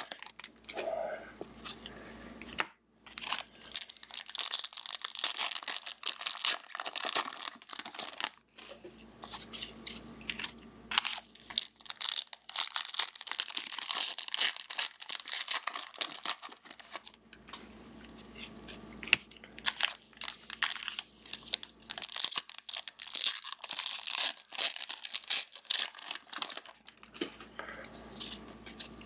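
Foil packs of football trading cards being torn open and their wrappers crinkled, with the cards handled, in uneven bursts and a couple of short pauses.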